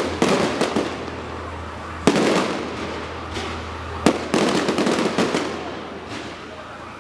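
Electronically fired fireworks from a flatbed-truck display: a sudden bang followed by rapid crackling, repeated about every two seconds, with two volleys close together about four seconds in, then dying down near the end.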